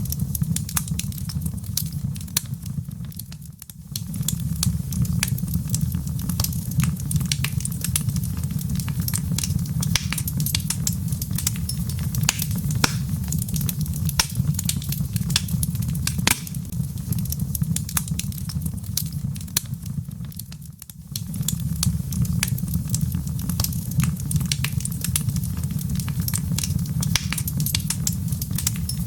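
Wood fire burning in a fireplace: logs crackling and popping with frequent sharp snaps over a steady low rumble. The rumble briefly fades twice.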